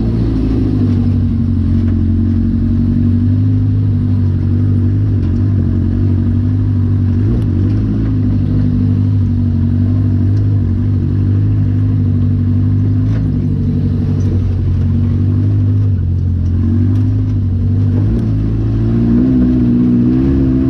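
Off-road buggy engine running continuously under way at a fairly steady speed, its pitch easing a little now and then and rising slightly near the end.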